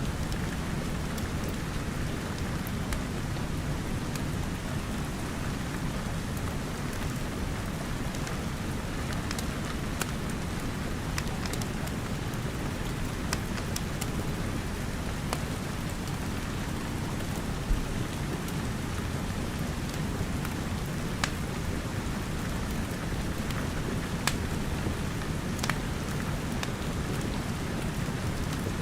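Steady rain with scattered sharp crackles and pops from a wood fire; one pop, about two-thirds of the way through, is louder than the rest.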